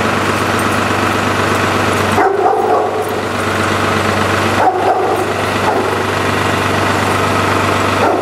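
Small farm tractor engine running steadily at raised revs while it warms up from a cold start, its hydraulics still sluggish from ice-cold fluid. A dog barks three times: a little over two seconds in, about halfway through, and at the end.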